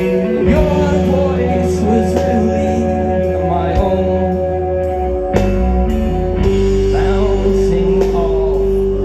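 Live rock band playing through a loud PA: sustained guitar chords over bass and drums, with some singing.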